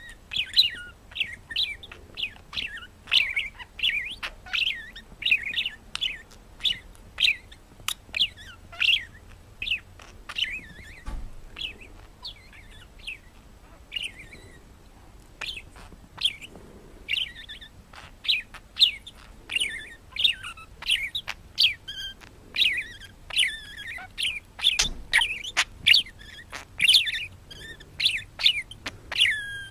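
Pet parrot chirping in rapid, short, high chirps, several a second, easing off briefly about halfway through before picking up again.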